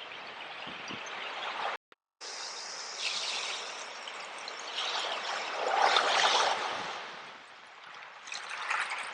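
Sea waves washing in, an even rush of water that swells to its loudest just past the middle and again near the end, with a brief drop-out to silence about two seconds in.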